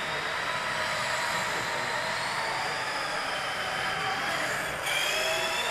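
Several electric RC cars running on a race track, their motors whining in overlapping tones that rise and fall as they speed up and slow down.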